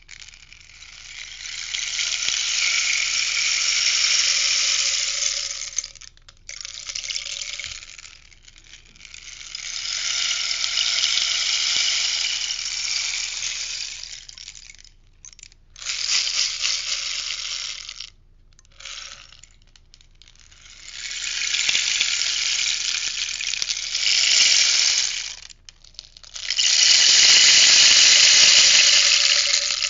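Rainstick turned over again and again, each turn sending its filling pattering down the tube in a cascade of a few seconds. About seven cascades in all, a couple of them brief, with short pauses between turns. The last, near the end, is the loudest.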